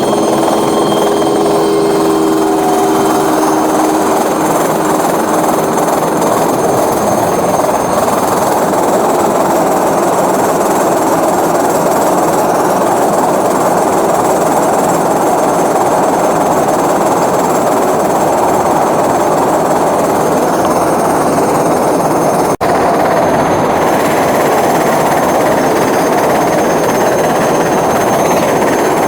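Steady wind buffeting and rumbling rattle on an action camera's microphone while riding a bicycle along a trail, with a momentary dropout about two-thirds of the way through.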